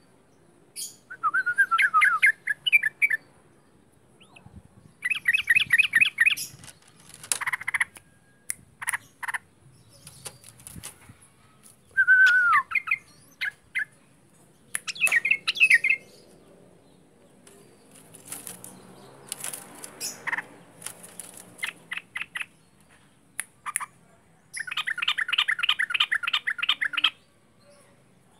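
Yellow-vented bulbul (trucukan) singing loud, chattering phrases of rapid repeated notes in bursts of one to two seconds, with short calls in between. It is the 'ngaruda' song style used as tutor song for cage birds. Near the end comes a longer fast trill.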